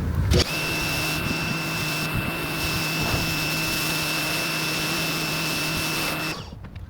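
Small electric motor running steadily with a high whine over a hiss. It starts just under half a second in and shuts off near the end.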